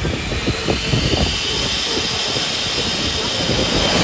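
Car engine at high revs as a car comes along the course, its high whine rising in pitch and getting louder toward the end, over low crowd chatter.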